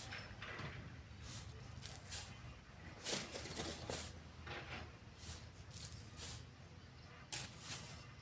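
Sand being shovelled and sifted: irregular short hissing, scraping strokes over a low steady hum.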